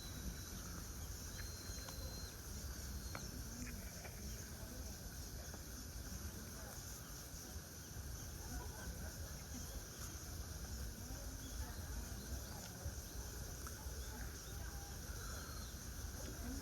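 Outdoor park ambience: a steady low rumble with faint distant voices. A small bird gives a thin high whistle about a second and a half in and again near the end.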